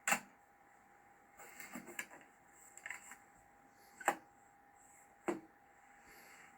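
Handling noise: three sharp clicks or knocks, one at the start, one about four seconds in and another a second later, with softer rustling and tapping between.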